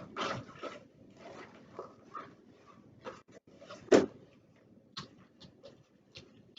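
Scattered small clicks and knocks of objects being handled, with one sharper, louder knock about four seconds in.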